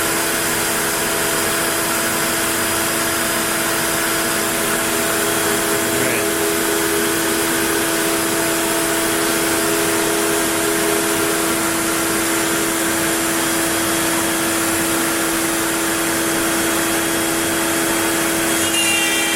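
Onefinity CNC router cutting wood, its router motor running at a steady pitch with a continuous whine and rushing noise as the bit cuts at depth through the board.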